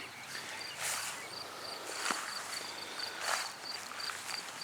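A high insect chirp repeating steadily, with a few soft rustles of feet or leaves in garden plants about one, two and three seconds in.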